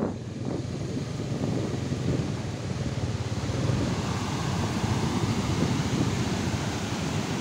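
Strong wind buffeting the microphone over the steady rush of large surf breaking on the beach.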